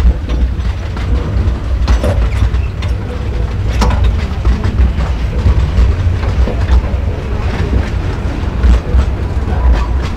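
Small open-sided tourist train running along its track, heard from inside a carriage: a steady low rumble with irregular sharp clicks from the wheels and carriages.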